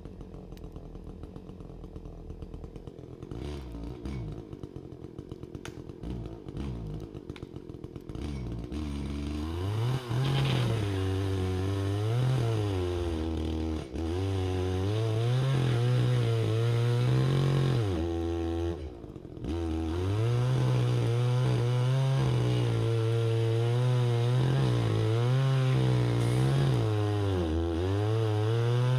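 Two-stroke chainsaw idling with an even putter, then opened up to full throttle about nine seconds in and cutting wood, its pitch sagging and recovering under load, with two brief drops back toward idle.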